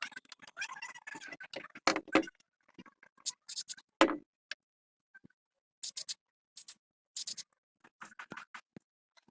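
Irregular scrapes and clicks of hand work on parts, in short separate strokes with silent gaps between them; the loudest strokes come at about two and four seconds in.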